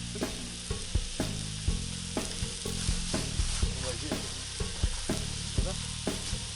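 Wood campfire crackling: a steady hiss broken by irregular sharp pops, about two a second.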